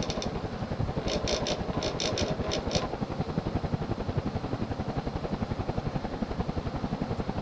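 Early-1980s Sears-branded Emerson ceiling fan with plastic blades running on high, about 175 RPM: a steady hum with a slight running moan and a rapid, even pulsing from the blades. A short run of faint high ticks comes about one to three seconds in.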